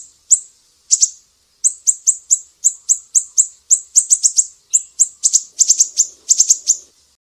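Sumatran siri-siri bird singing: a series of sharp, high-pitched chips that come faster and bunch into quick clusters near the end, then stop just before the end.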